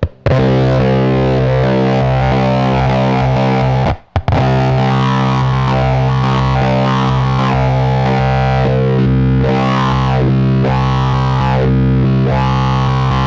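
Electric guitar through the AC Noises URLA's square-wave fuzz and resonant low-pass filter. A held fuzz note stops briefly about four seconds in and is struck again. The filter cutoff is swept by an expression pedal, giving repeated wah-like rising and falling sweeps that are clearest in the second half.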